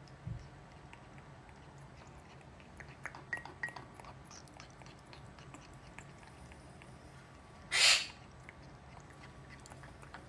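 Parrots eating: small scattered beak clicks and nibbling sounds, with a short loud rushing noise about eight seconds in.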